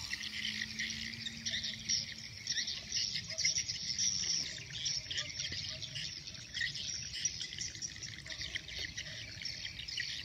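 A dense, steady chorus of high-pitched outdoor chirping from insects and birds, with a faint low hum that fades out about halfway through.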